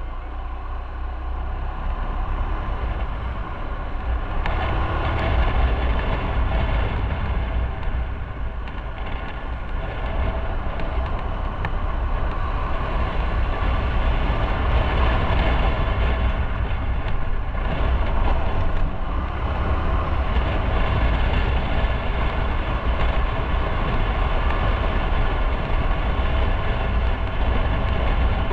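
Motorcycle engine running as the bike pulls away and gets up to speed, with wind and road noise on the microphone growing louder over the first few seconds, then holding steady.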